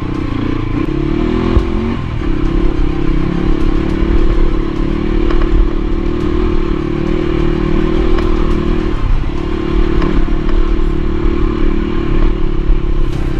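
Motorcycle engine running at a steady pitch under way, dipping briefly about nine seconds in, with a few knocks and rattles over a low rumble.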